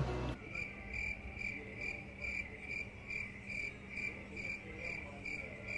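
A cricket chirping faintly in an even rhythm, about two short chirps a second, over a faint low hum.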